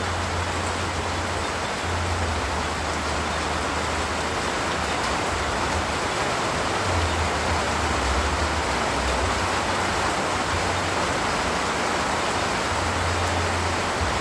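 Steady rain falling, an even hiss, with a low rumble underneath that comes and goes.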